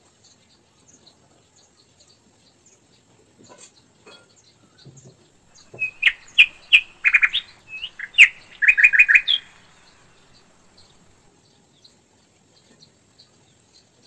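Small birds chirping: two quick runs of short, bright chirps about halfway through, the second a rapid string of about six notes.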